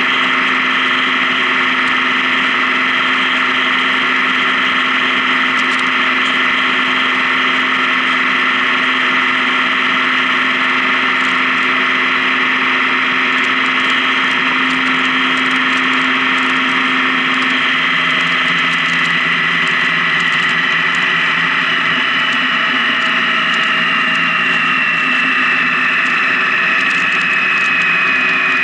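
Honda Gold Wing motorcycle riding along the highway: a steady engine hum with wind and road noise. The engine tone eases slowly downward over the last several seconds as the bike slows.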